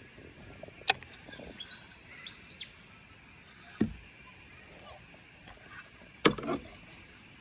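Three sharp knocks, about a second in, near four seconds and past six seconds, over a low outdoor background, with birds chirping faintly between the first two.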